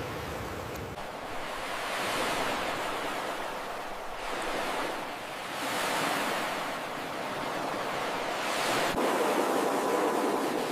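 Ocean surf: waves washing up on a beach, the rushing noise swelling and ebbing three times.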